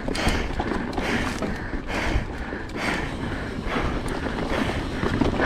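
Mountain bike descending a rough dirt trail, heard from a helmet camera: tyres rolling over dirt and rocks, with the bike knocking and rattling over bumps and wind on the microphone.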